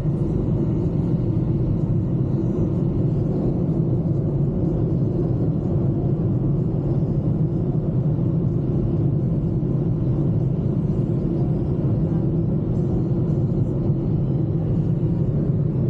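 A car driving at road speed: a steady low rumble of road and engine noise.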